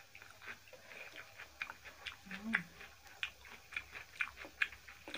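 Close eating sounds of rice and mutton curry eaten by hand: irregular wet chewing and smacking clicks, several a second, with a brief low hum about two and a half seconds in.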